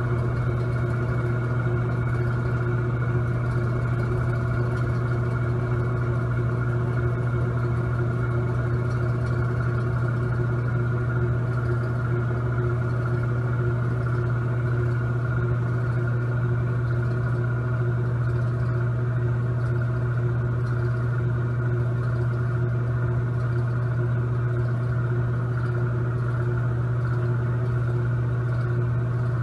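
Electric fan running steadily: a constant low motor hum with several fainter steady tones above it, unchanging throughout.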